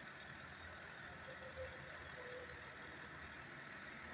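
Faint, steady hum of an idling truck engine under outdoor street noise.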